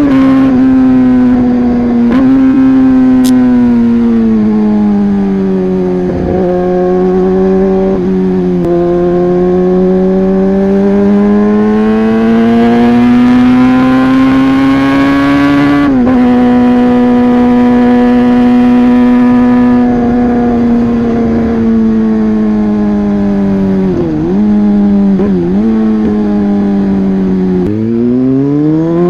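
Yamaha R15 V3 motorcycle engine running loud through a modified exhaust while riding, its pitch drifting slowly up and down with throttle. There are short breaks and dips several times, and a steep climb in revs near the end.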